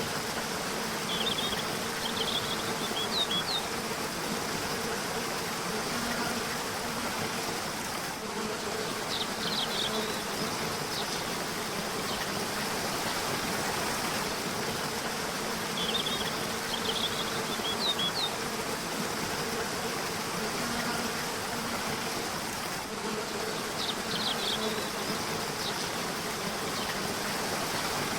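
Steady rush of a river or waterfall with a faint low steady hum under it. Short bursts of quick, high bird chirps break through four times, several seconds apart.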